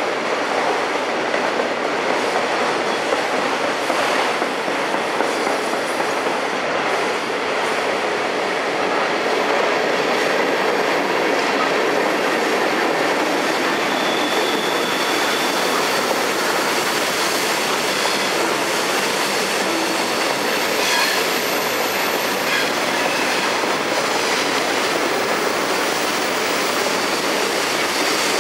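Freight train rolling past on the rails: a steady rumble and clatter of wheels on track, with a few brief, faint high wheel squeals.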